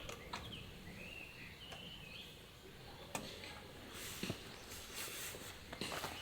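A bird calling faintly in short wavering phrases, over a quiet outdoor background with a few light clicks and knocks.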